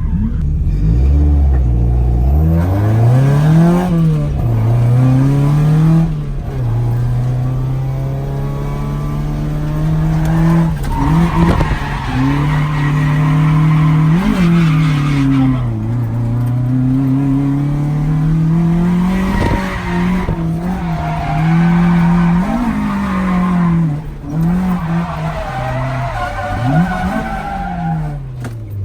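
Toyota AE86's BEAMS 3S-GE four-cylinder engine revving hard on a drift run, its pitch climbing and dropping again and again as the throttle is worked, with the tyres squealing as the car slides.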